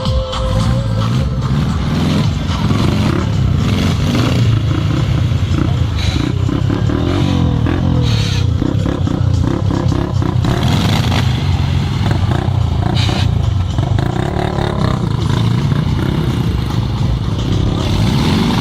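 Off-road vehicle engine running hard and revving up and down repeatedly under load.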